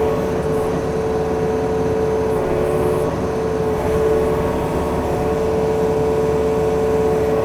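Yanmar excavator's diesel engine running steadily at working speed, with a steady high whine over the engine note.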